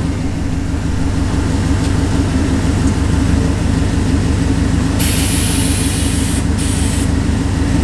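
Truck engine idling with an even low pulse. About five seconds in, a hiss of air lasts roughly two seconds as the air suspension raises the front of the truck.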